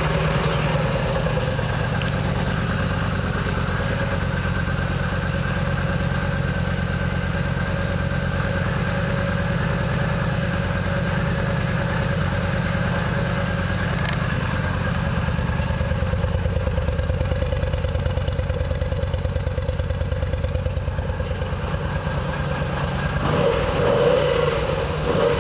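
A Yamaha V Star 950's air-cooled V-twin idling steadily, then revved a couple of times near the end. The exhaust has a note that the seller thinks almost sounds like a perforated muffler baffle.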